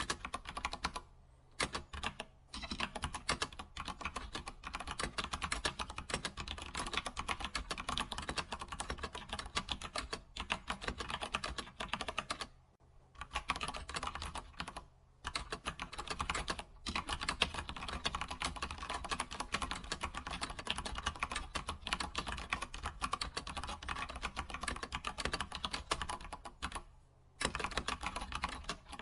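Fast, continuous typing on a computer keyboard, rapid key clicks broken by a few brief pauses.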